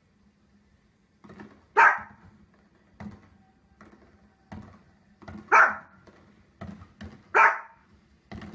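A dog barking: three loud, sharp single barks a couple of seconds apart, with fainter short barks in between, over a faint steady low hum.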